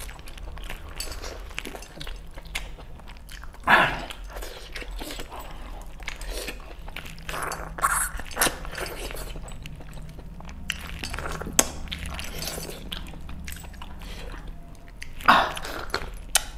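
Close-up chewing and biting as a man eats chicken on the bone with his hands: wet smacking and crunching, with three louder bursts about 4, 8 and 15 seconds in.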